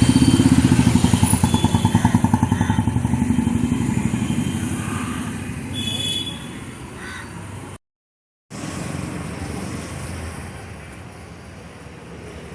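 Motorcycle engine running with a fast, even pulsing. It is loud at first and fades away over several seconds. After a brief break, quieter steady traffic noise follows.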